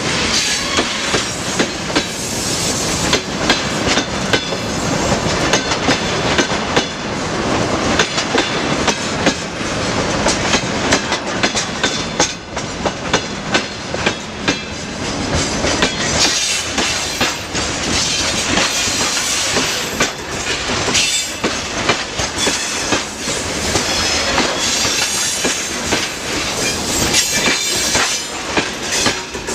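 Freight train wagons rolling past at speed, a continuous loud rumble with rapid clickety-clack of wheels over rail joints and some wheel squeal.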